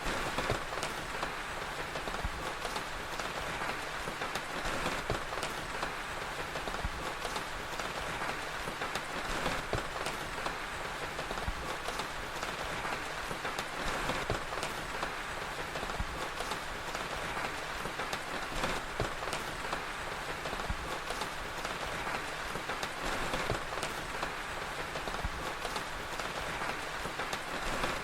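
Steady rain, with scattered pops and crackles of a fire throughout.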